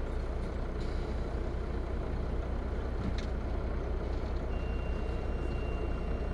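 Interior of a Van Hool A320 city bus underway: the engine and drivetrain produce a steady low rumble through the cabin. A thin, steady high tone comes in about two-thirds of the way through and holds.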